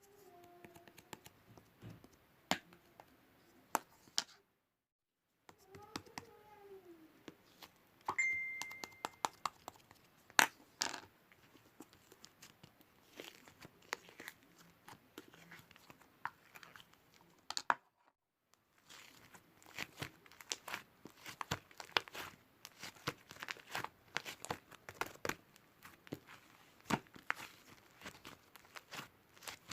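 Crinkling and crackling handling noises with many scattered sharp clicks and taps, broken twice by a second of dead silence.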